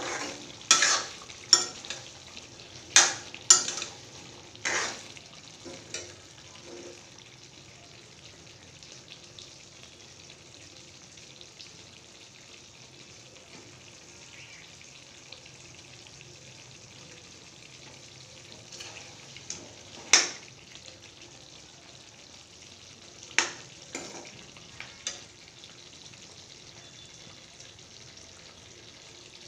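Pork and potato curry sizzling and bubbling in a metal kadai, cooking without added oil. A steel ladle scrapes and clanks against the pan several times in the first five seconds, then the pan simmers steadily, with a few more clanks about 20 and 23 seconds in, the one near 20 seconds the loudest.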